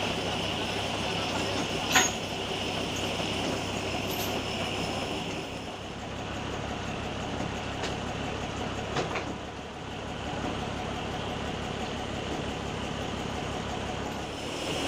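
Diesel truck engine running steadily during a ditch recovery, with a sharp knock about two seconds in and a few lighter knocks around the nine-second mark.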